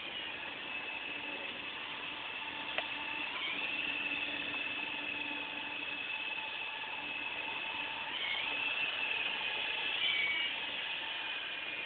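Radio-controlled model helicopter's motor, gears and rotor running with a steady high whine over a lower hum, the pitch dipping and rising a few times as it flies. A single short click about three seconds in.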